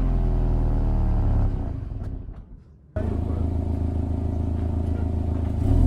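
Subaru Impreza WRX STI's flat-four boxer engine idling steadily through its exhaust. The sound fades out about two seconds in, then cuts back in abruptly a second later and idles on.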